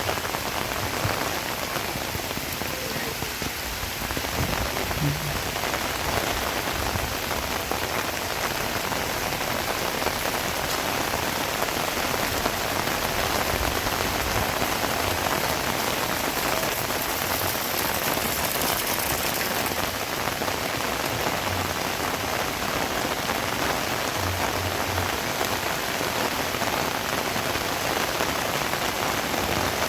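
Heavy rain falling steadily, a dense, even hiss of drops that holds at the same level throughout.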